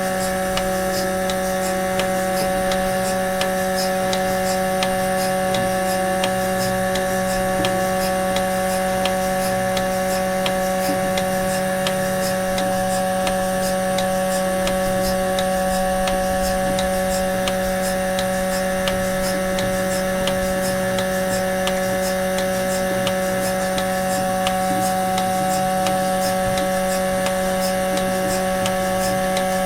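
Cow milking machine running steadily while milking: a constant motor hum with a light, regular ticking over it.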